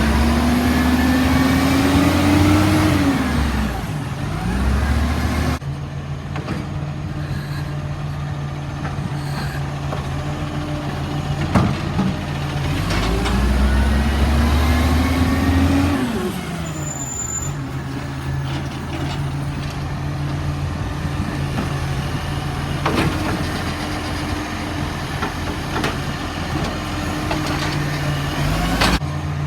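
Garbage truck's diesel engine idling, twice revving up over a few seconds and dropping back as the truck works a bin collection. A few sharp knocks sound in between.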